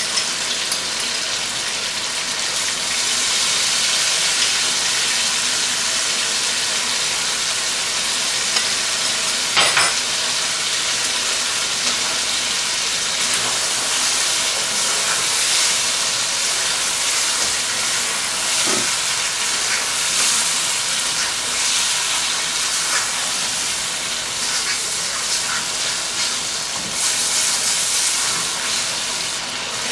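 Chicken, tomatoes and green chillies frying in oil in a non-stick karahi, sizzling steadily while being stirred. There is one brief knock about ten seconds in.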